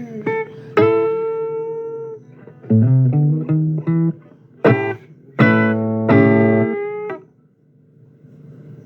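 Blues guitar playing the closing licks and final chords of a song, each chord ringing out, until the music stops about seven seconds in. A faint steady hum remains after it stops.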